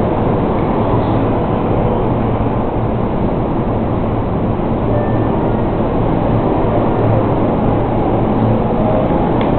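Keihin-Tohoku line electric train running through the station without stopping, a loud steady rolling noise with a low hum.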